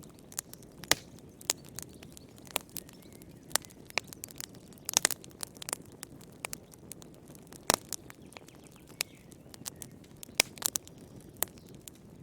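Wood fire burning in a fireplace: irregular sharp crackles and pops over a low steady hiss, with a quick cluster of louder pops about five seconds in.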